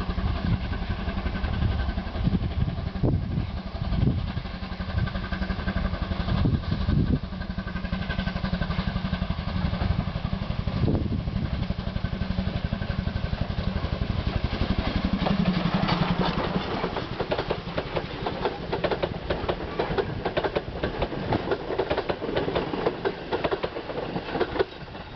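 Oigawa Railway train at a station, its machinery running with a fast steady pulsing. About fifteen seconds in, a short low tone sounds, followed by a long run of quick clicking and clattering as the train moves over the track.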